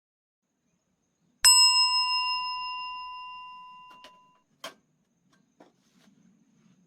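A single bell-like metallic strike about a second and a half in, ringing clear and fading away over about three seconds, followed by a few light clicks.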